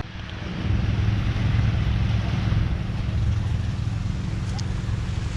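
Motorboat engine running with a steady low hum, under wind and water noise.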